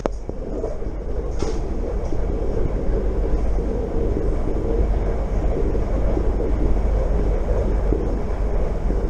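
Steady rumble and rush of a train running at speed, heard from inside a carriage, while a container freight train passes close alongside on the adjacent track.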